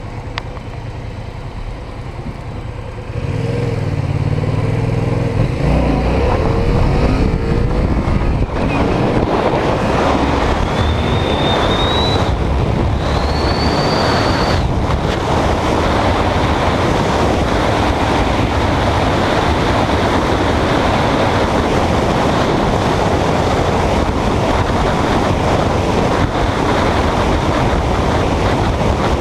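Motor vehicle pulling away: engine pitch rises and falls through the gears for a few seconds, then settles into loud steady road and wind noise at speed. Two brief high whistles come near the middle.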